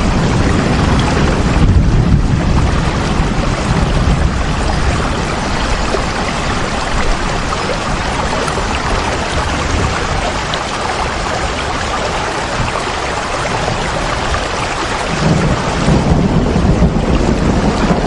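Steady rain falling as a continuous hiss, with a deep low rumble underneath that eases in the middle and swells again near the end.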